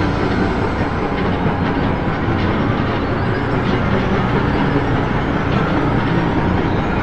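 A continuous, steady rumbling roar, heaviest in the low end, with no breaks or changes.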